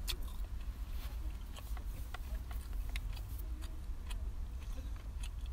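Close-miked chewing of a toasted ham and cheese sandwich: scattered sharp crunches and mouth clicks, the strongest right at the start, over a steady low rumble.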